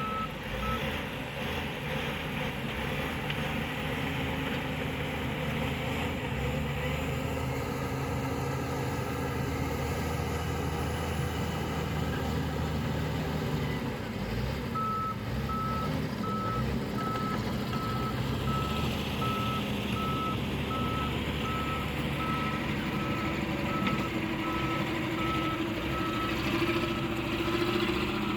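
Heavy construction vehicle's engine running steadily with its reversing alarm beeping, a single-pitched beep about one and a half times a second. The beeping stops just after the start and starts again about halfway through.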